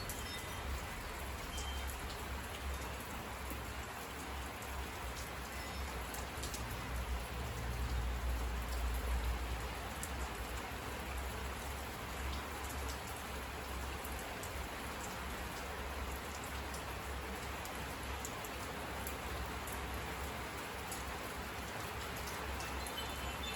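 Steady rain falling on surfaces, a dense even hiss with scattered sharper drip ticks. A low rumble swells briefly about eight seconds in.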